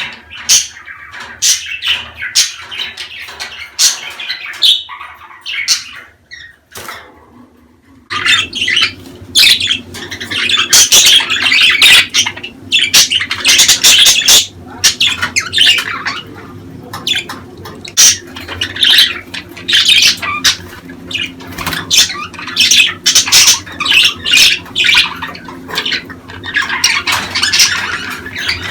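A flock of budgerigars chattering, with rapid chirps, warbles and squawks. There is a brief lull about six seconds in, then denser, louder chatter resumes.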